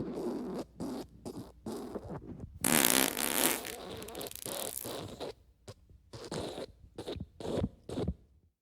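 Fart sound effects: a quick string of short raspy farts, with one longer, louder fart about three seconds in and a few short ones near the end.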